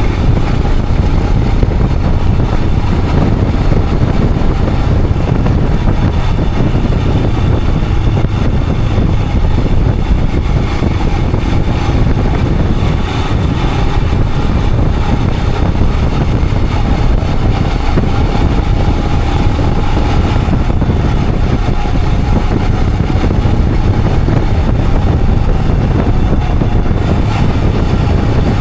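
Royal Enfield Himalayan 411's single-cylinder engine running steadily under way, loud and even, with no pauses or sudden changes.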